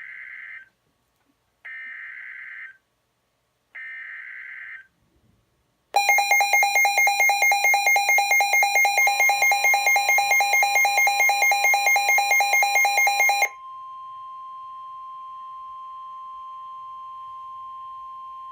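NOAA Weather Radio alert over a Midland WR-120 weather radio: three short, screechy digital data bursts (the SAME alert header), then a loud, rapidly pulsing alarm beep for about seven seconds, then the steady 1050 Hz warning alarm tone, which holds to the end. The sequence signals an incoming severe weather warning.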